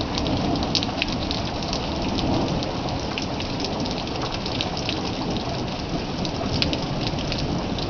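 Steady rain falling during a night thunderstorm, a continuous hiss sprinkled with many small sharp drop ticks.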